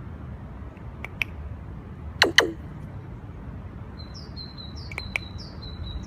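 Caged pet birds chirping: a couple of short chirps, then two loud sharp calls about two seconds in that drop steeply in pitch, and near the end a quick run of six or so high, even chirps.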